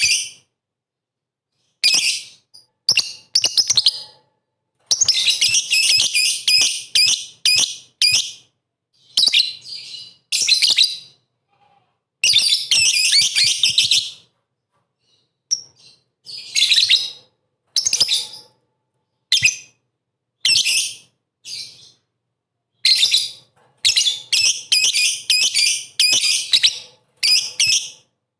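Lovebird chattering in rapid, shrill bursts, some short and some running up to about two seconds, with abrupt silent gaps between them.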